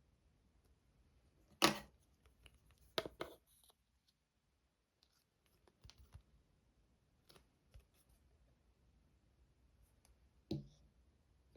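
Parcel packaging and goods being handled during an unboxing: a few sharp clicks and short plastic rustles, the loudest about two seconds in, around three seconds in, and near the end, with fainter ticks between.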